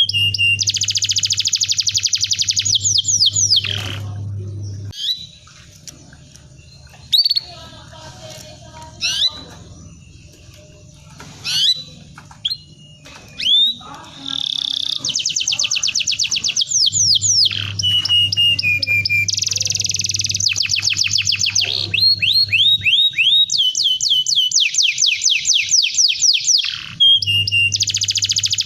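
Domestic canary singing: long, rapid rolling trills and sweeping whistled notes, with a quieter stretch of scattered single chirps in the middle. A steady low hum runs under the loudest trill passages.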